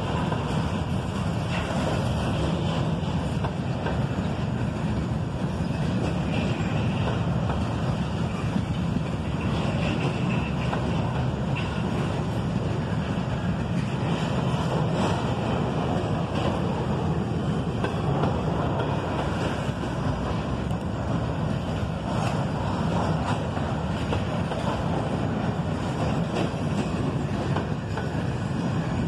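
Intermodal freight train's well cars rolling past: a steady, deep rumble of steel wheels on the rails that goes on without a break.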